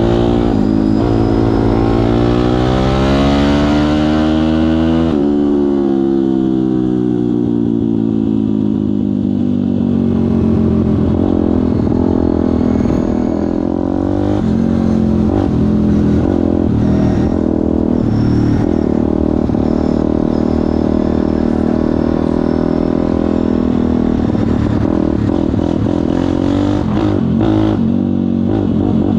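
Pit bike engine being ridden. The revs climb for about five seconds, drop sharply, then fall away and keep rising and falling as the throttle is worked.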